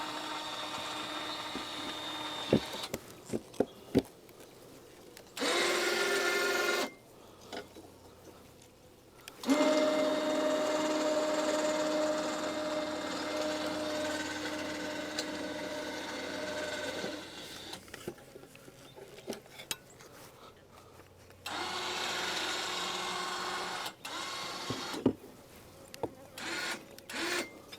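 Small electric motor, likely the hive lifter's, whining in four separate runs that start and stop abruptly, the longest about seven seconds. Sharp knocks and clicks of wooden hive boxes being handled come between the runs.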